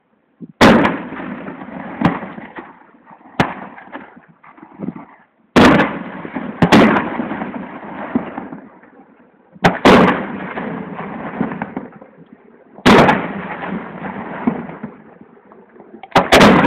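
Aerial firework shells bursting overhead: about eight loud bangs a second or three apart, each followed by a rolling echo that dies away. The last two come in quick succession near the end.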